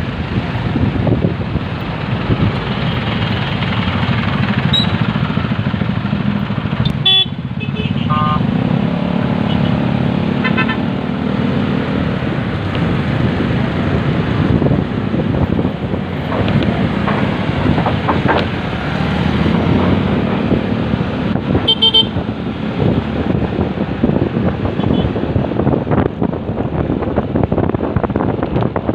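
Motorcycle riding through city traffic: a steady engine and road rumble, with a few short vehicle horn toots, around a quarter of the way in and again later.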